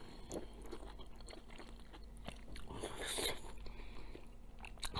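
Close-up mouth sounds of a person eating steamed scallop meat: soft chewing with small wet clicks and smacks, swelling a little about three seconds in.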